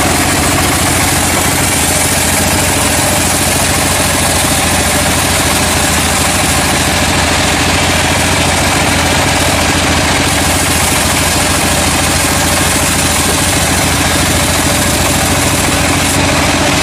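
Sawmill machinery running steadily, an engine-like hum with a constant noise over it and no change in pitch.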